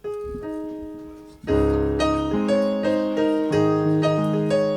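Electric keyboard playing: a couple of held notes, then from about a second and a half in full sustained chords with a bass line, the chords changing every half second or so.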